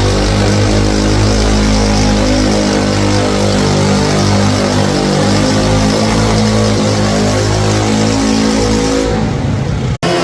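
Garden pulling tractor's engine running at high, steady revs under load during a pull. Near the end the note changes and thins, followed by a sudden brief cut in the sound.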